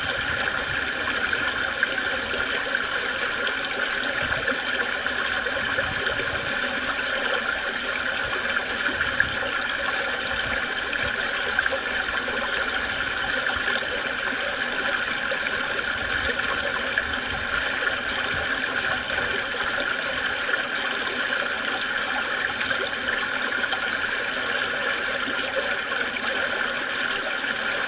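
Creek water babbling and splashing over stones, a steady, even rush of running water.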